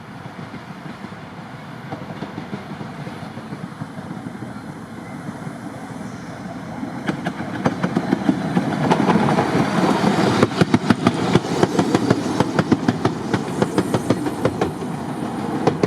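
Miniature park railway train coming closer, a rumble that swells about halfway through, with its wheels clicking rapidly over the rail joints as it draws near and passes.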